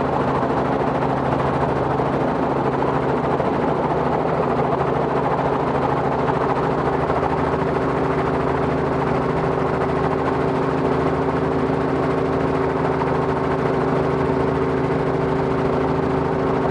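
Robinson R44 helicopter's six-cylinder Lycoming piston engine and rotors running steadily, a constant drone under a rapid beating.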